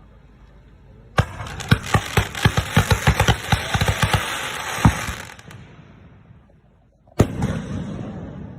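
Aerial fireworks shells bursting close by: after a quiet moment, a rapid volley of sharp bangs for about four seconds that fades away, then a single loud bang near the end with a long fading rumble.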